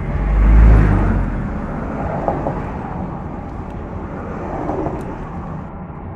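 A motor vehicle passing by: a low rumble that swells to its loudest about a second in, then fades away slowly.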